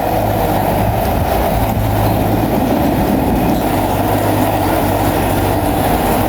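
Bulldozer's diesel engine running steadily with a low hum, its steel tracks clattering as it moves.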